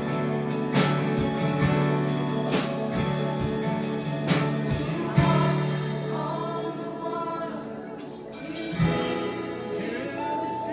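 Live gospel worship music: voices singing together over a band with a steady drum beat. About halfway the beat drops away, leaving softer sustained singing and instruments.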